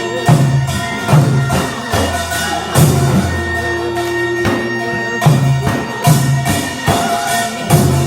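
Korean traditional dance accompaniment: a reed wind instrument playing long held notes over percussion striking a steady beat about every 0.8 s.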